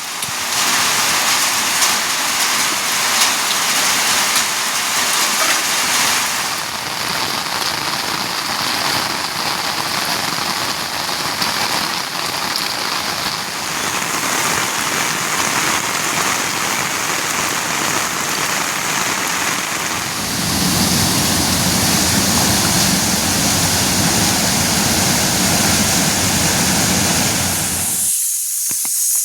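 Heavy rain falling as a loud, steady hiss. About two-thirds of the way in it takes on a deeper rumble, and near the end it thins to a high hiss.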